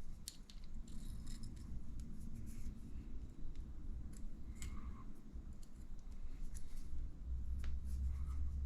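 Scattered light clicks, taps and scrapes of small RC shock parts and a small wrench being handled on a workbench while a piston is fitted to a shock shaft, over a low steady hum.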